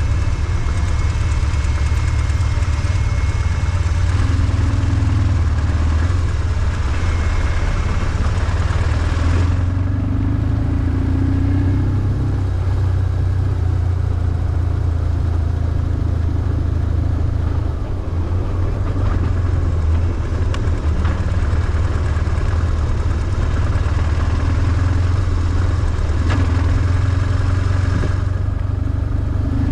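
BMW R1150GS's air/oil-cooled boxer twin running under way, a steady low engine note with little change in pitch.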